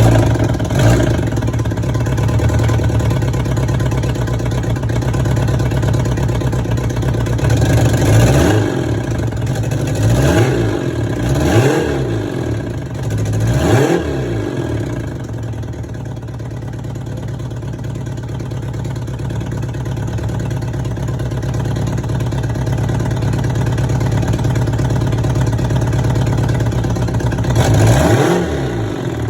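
Honda CBR750 Hurricane's inline-four engine idling on its first start after more than 15 years laid up. The throttle is blipped four times in a row about a third of the way in and once more near the end, each rev rising and falling back to idle.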